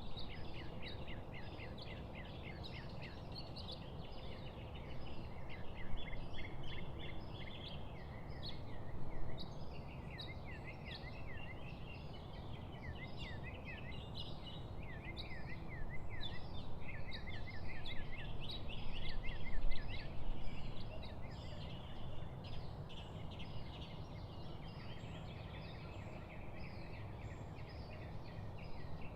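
Many small birds chirping and chattering in quick, overlapping notes, busiest in the middle stretch, over a steady low background noise.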